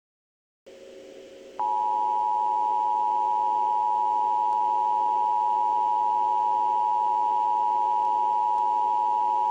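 Emergency Alert System attention signal: two steady tones sounding together just under 1 kHz, starting about a second and a half in and held for about eight seconds before cutting off sharply. A faint low hum precedes it.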